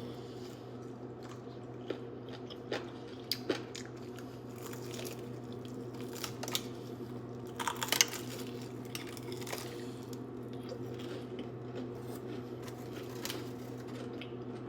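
Biting into and chewing fried chicken with crunchy breading: scattered short crunches and mouth clicks, the loudest about eight seconds in, over a steady low hum.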